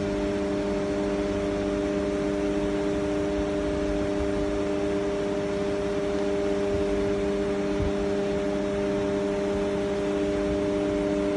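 Steady mechanical hum of a running machine, several held tones over a noisy hiss, unchanging throughout.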